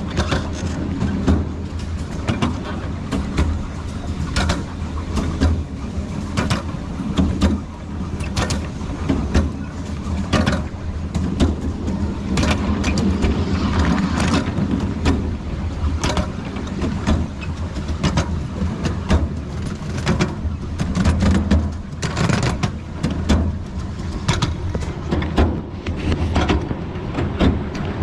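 Ride in an open carriage of a miniature railway train: a steady low rumble of the moving train, with frequent irregular clicks and clatter of the wheels running over the rails.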